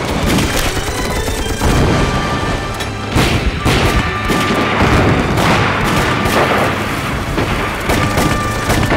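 Battle sound effects: repeated explosion booms and bursts of gunfire, mixed over background music.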